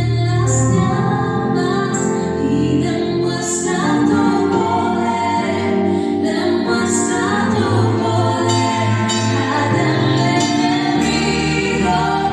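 Christian worship song: voices singing together over instrumental accompaniment with a steady bass line.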